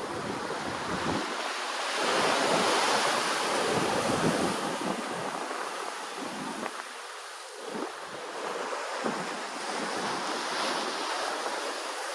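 Ocean surf washing in: a swell builds about two seconds in, ebbs away by about seven seconds, then builds again. Some wind on the microphone.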